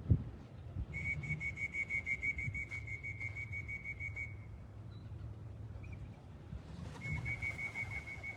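A trilling whistle blown in two long blasts, the first about three seconds long and the second starting near the end, calling racing pigeons in to the loft.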